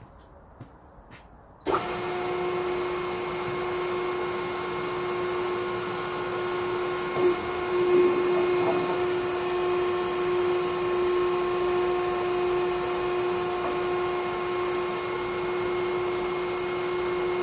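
Hydraulic log splitter's motor and pump starting up about two seconds in, then running with a steady, even whine, with a couple of brief louder moments around seven and eight seconds in.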